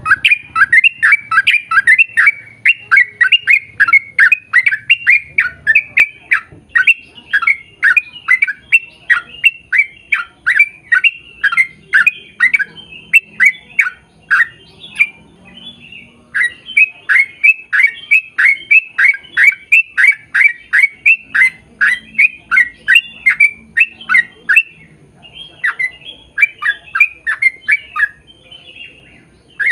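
A bird calling loudly and repeatedly: a long run of short, downward-sweeping squawks, about three a second, with a pause of a second or two past the middle and a shorter one near the end.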